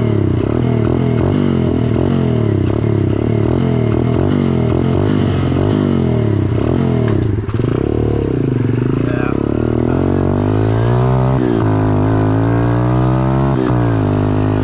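A 125cc pit bike's single-cylinder engine running under way. For the first half its note wavers in a pulse about three times a second. After a brief dip about halfway, the revs climb twice, dropping back between the climbs.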